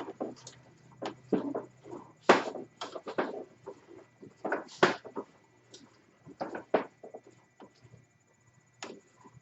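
Irregular light clicks and knocks of metal parts being handled while the ATV's steering shaft and front end are worked on by hand, with the two sharpest knocks about two and five seconds in, over a faint low hum.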